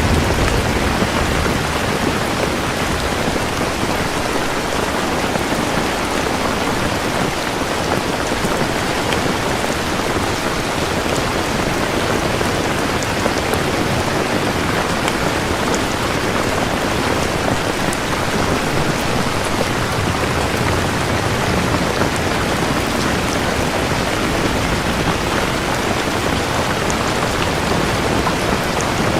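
Steady, heavy rain falling and pattering on surfaces.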